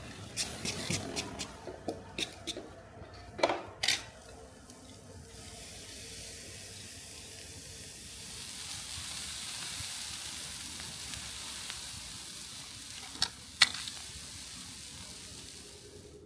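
Light clicks and two louder knocks, then a steady hiss that swells and holds for about ten seconds, broken by two sharp clicks near the end.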